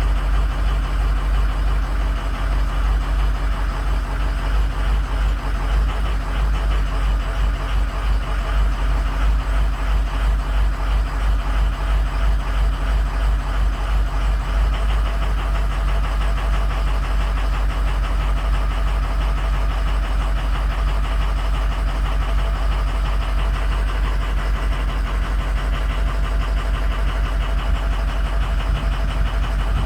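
Ford 6.0 Powerstroke turbo-diesel V8 idling with an even pulsing beat while a cylinder contribution test runs on it, an engine with bad injectors in cylinders 5, 2 and 7.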